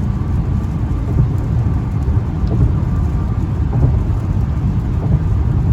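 Car driving at highway speed, a steady low rumble of road and wind noise.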